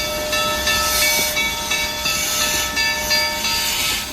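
2-6-6-2T articulated tank steam locomotive running by with its train: loud hissing steam that swells and fades in surges, over a steady high-pitched ringing tone.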